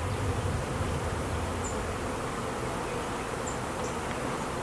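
Steady, dense buzzing of a mass of agitated honeybees around an open hive, with robbing going on between the hives.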